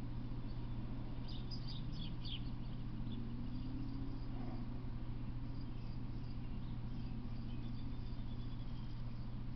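Steady low hum with outdoor background noise, the loudest part throughout. Over it a small bird gives a quick cluster of high chirps about a second and a half in, and a faint chirping series comes near the end.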